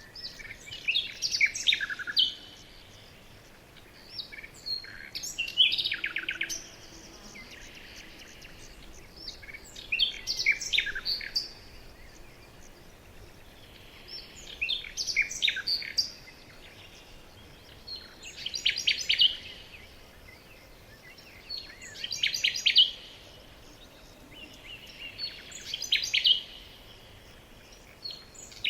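A songbird singing the same short phrase over and over, about once every three to four seconds. Each phrase is a quick run of high trilled notes lasting a second or two.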